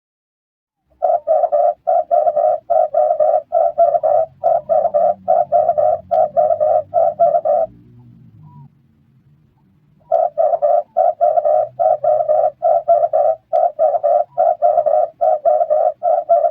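Red turtle dove cooing in a fast, even series of short coos, about three a second. It gives two bouts, the second starting after a pause of roughly two seconds.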